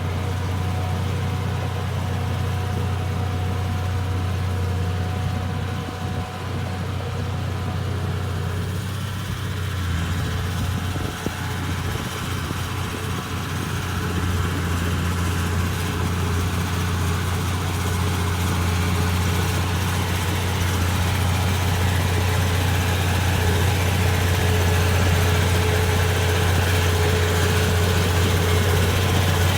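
Komatsu D31P crawler bulldozer's diesel engine running steadily with a deep hum, growing gradually louder in the second half.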